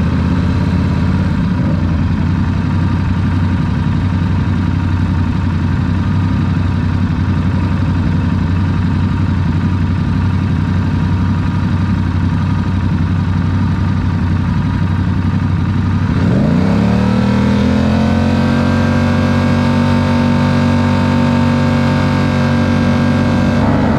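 Yamaha R7's parallel-twin engine running steadily at low revs. About two-thirds of the way in it pulls away: the revs climb sharply, then keep rising slowly, and drop briefly at the very end as it shifts up.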